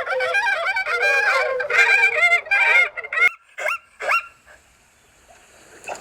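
Animal calls: a rapid run of short pitched calls for about three seconds, then a few sharp falling calls, then a quiet gap.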